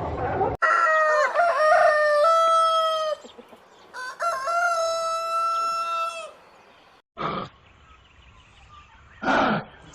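A rooster crowing twice, each crow a long drawn-out call of about two seconds. After a break, two short rough animal calls follow.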